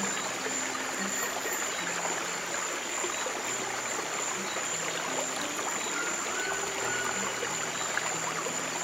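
Steady flowing water of a stream, with soft low held piano notes that change every second or two underneath, and a thin steady high-pitched tone.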